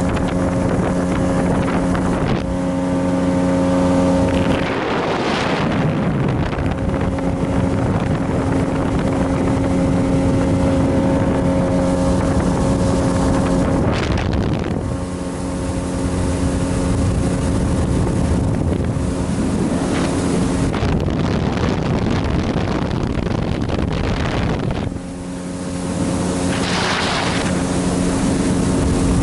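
Boat engine running steadily at constant speed, with wind noise on the microphone and three louder rushes of noise, about 5 s, 15 s and 27 s in.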